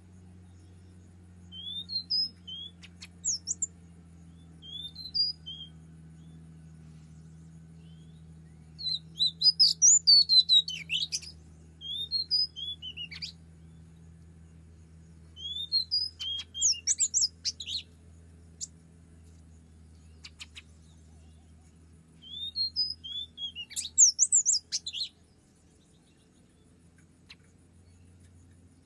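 Oriental magpie-robin singing: bouts of clear whistled and chirping phrases, rising and falling, a few seconds apart. A faint steady low hum runs underneath.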